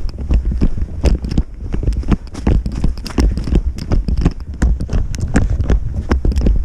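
Quick footsteps on lake ice, several steps a second, as a person hurries to a tripped tip-up flag, over a low rumble.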